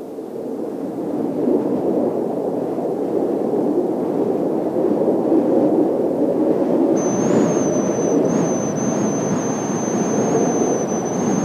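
Jet roar from Blue Impulse Kawasaki T-4 trainers' twin turbofan engines flying over the base. A thin, high, steady turbine whine joins the roar about seven seconds in.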